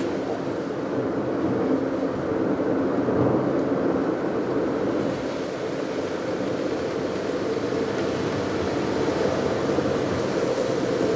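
A car being driven at a steady pace: continuous engine and road noise heard from inside the cabin, even throughout with no change in speed.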